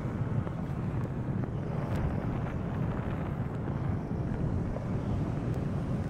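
Storm wind blowing hard and buffeting the microphone: a steady low rumble with no distinct pitch.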